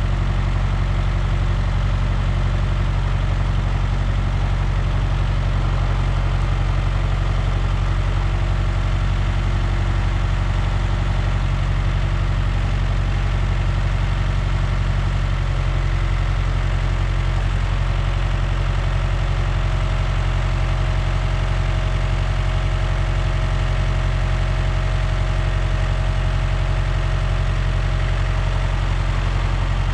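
A large engine idling steadily, its note shifting slightly about halfway through.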